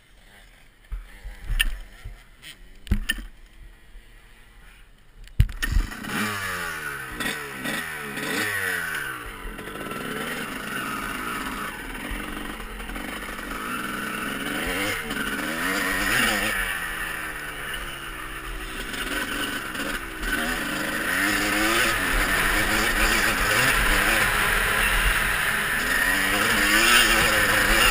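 A few knocks, then about five and a half seconds in a motocross bike's engine comes in and revs up and down over and over, louder near the end.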